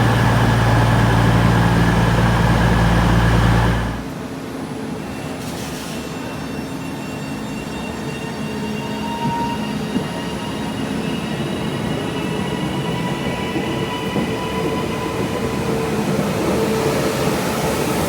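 A train at a railway station. A loud low rumble like a heavy engine cuts off abruptly about four seconds in. Then comes a quieter sound with thin steady high tones, slowly growing louder.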